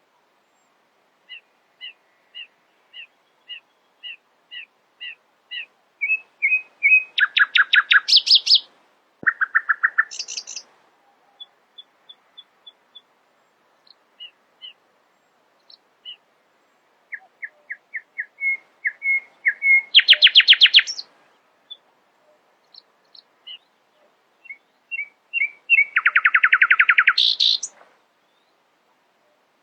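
Nightingale singing: phrases of spaced, repeated whistled notes that quicken and swell into loud, rapid trills, about three phrases with short pauses between.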